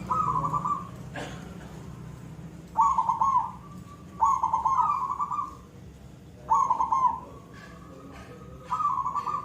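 Zebra dove (perkutut) cooing: five phrases, each a quick stutter of notes running into a drawn-out 'koong' note. A single sharp click sounds about a second in.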